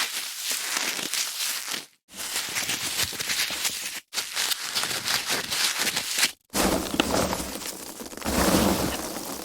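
Foam packaging being handled: dense crackling and rubbing noise in several separate takes, cut apart by brief silent gaps about two, four and six and a half seconds in. It gets fuller and louder near the end.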